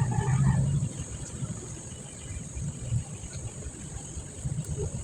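Crickets chirring steadily in a high continuous band, over a low rumble that is strongest in the first second.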